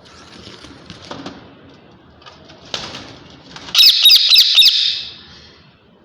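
Ring-necked parakeets flapping and calling: faint scratchy sounds, then about three and a half seconds in a loud harsh burst of four quick beats lasting about a second.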